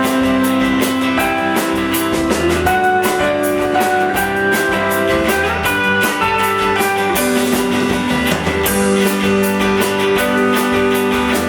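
Rock band playing live: guitar holding long chords over a steady drum beat.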